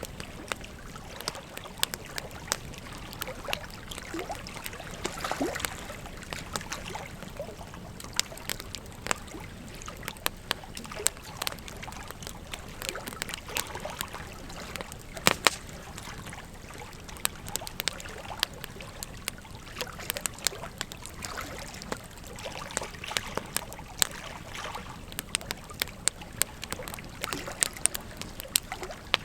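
Wood fire crackling, with frequent irregular sharp pops and snaps, over the steady rush of flowing river water. The loudest pop comes about halfway through.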